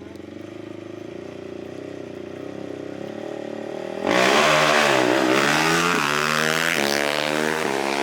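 A small engine running steadily, then, about four seconds in, a loud small engine revving hard close by. Its pitch climbs, drops back and climbs again several times as it accelerates.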